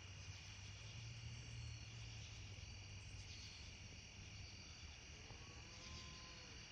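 Faint, steady chirring of crickets over a low steady rumble. From about five seconds in, a faint, distant cow moos once in a long call that rises and falls.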